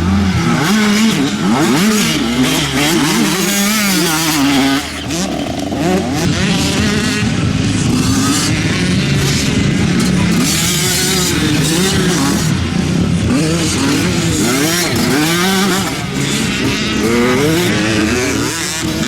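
Several small two-stroke youth motocross bikes (85cc and 65cc) racing together, their overlapping engines revving up and down repeatedly as the riders work the throttle and shift.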